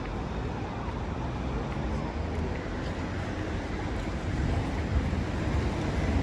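City street ambience: a steady wash of traffic noise with a fluttering low rumble of wind on the microphone, growing louder near the end.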